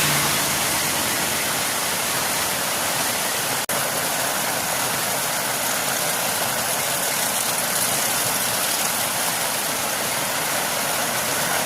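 Torrential rain pouring down in a steady, dense hiss, with a momentary break about four seconds in.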